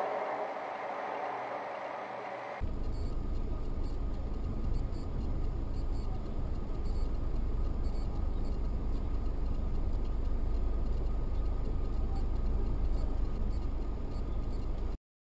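Steady low rumble of engine and road noise inside a moving car, picked up by a dashcam. It follows a short hiss that cuts off abruptly about two and a half seconds in.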